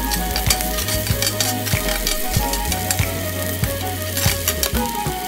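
Shallot strips sizzling and crackling in hot sesame oil on a ridged griddle pan, moved about with metal tongs. Background music with a steady bass line plays underneath.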